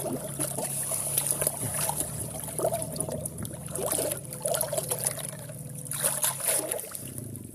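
Flood water splashing and gurgling close by, with a steady low hum underneath.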